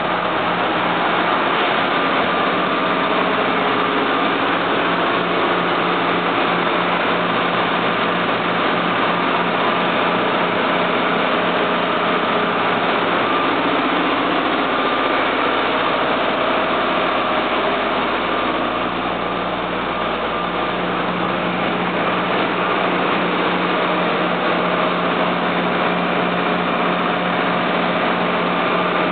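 Boat's Caterpillar diesel engine running steadily at idle, an even loud drone.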